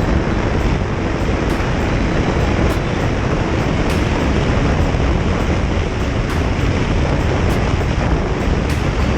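Steady wind rush over the microphone of a moving motorcycle, blended with road noise, unchanging throughout.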